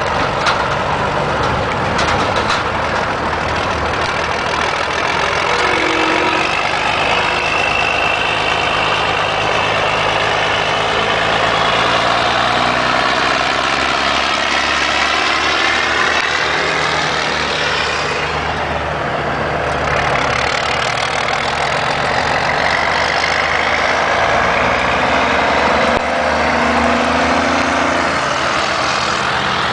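Heavy diesel truck engines running as the trucks pull away and drive past, the engine pitch rising and falling with the gears.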